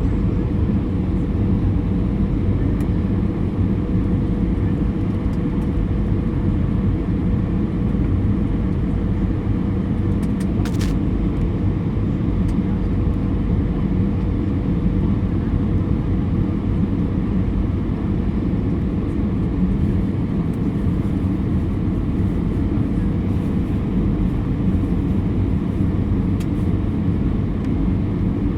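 Steady cabin noise inside an Airbus A320 airliner on approach: engine and airflow rumble, heaviest in the low end, with a faint steady tone over it. A brief click comes about eleven seconds in.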